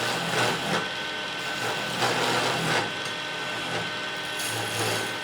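Wood lathe turning, with a tool scraping and cutting the spinning wood in uneven swells over a steady motor whine.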